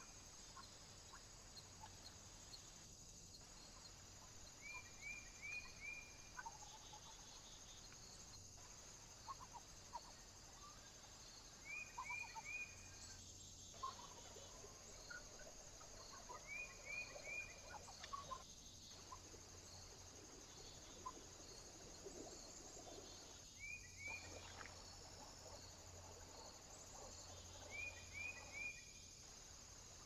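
Faint wild bird chirps in quick groups of three or four short high notes, repeating every few seconds, over a steady high hiss. The sound drops out briefly about every five seconds.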